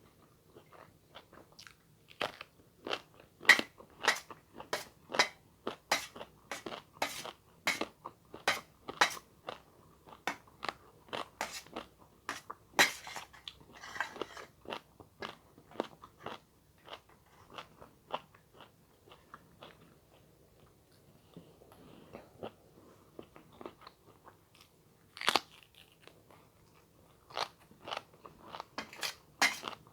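A person eating close to the microphone, chewing with many crisp crunching bites in quick succession, about two a second; the crunching eases into softer chewing in the middle, then picks up again near the end.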